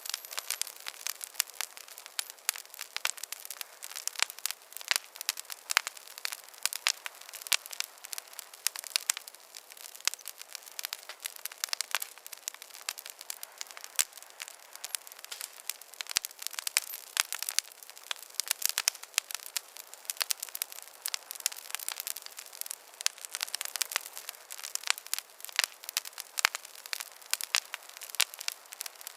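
Wood campfire crackling: a steady stream of irregular sharp pops and snaps over a soft hiss, with almost no low rumble.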